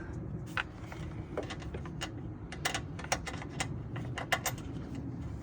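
A series of irregular light clicks and knocks: plastic engine-bay parts and hand tools being handled while an air box is fitted into place, with a steady low hum beneath.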